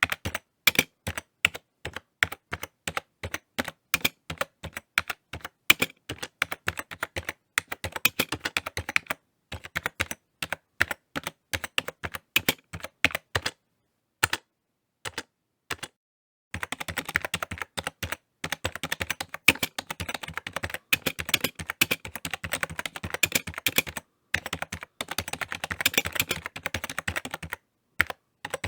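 Typing on a computer keyboard: irregular runs of sharp key clicks, pausing for a few seconds about halfway through, then resuming as a faster, denser flurry of keystrokes.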